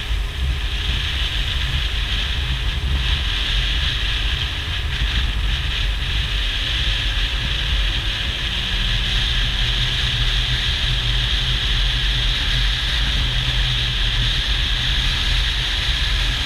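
Jet ski engine running steadily at speed with water rushing, and heavy wind buffeting on the microphone.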